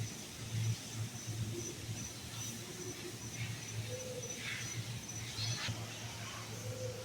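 Indoor aviary ambience: a steady low hum under a faint, rapidly pulsing high tone. A few short bird calls come through, two brief low arched notes and some higher chirps around the middle.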